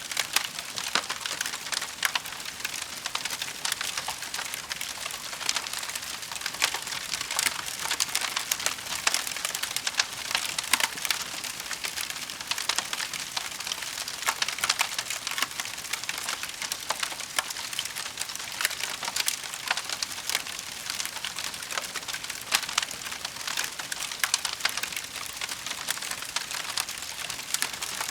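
Wood fire burning in a fireplace, with many small crackles and pops throughout.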